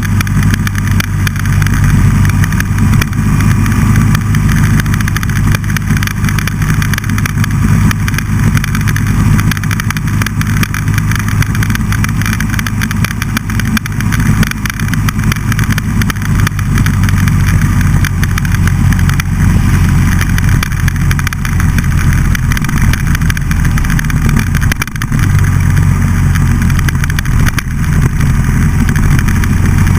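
Buell XB12SCG's air-cooled 1203 cc V-twin running under way, loud and fairly steady, with a brief drop in engine note about 25 seconds in.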